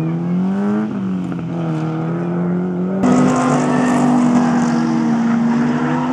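Racing car engines at hard throttle through a corner, the pitch climbing and then dropping back about a second in. About three seconds in, the sound switches to a pack of cars, louder, with a steady engine note and a hiss above it.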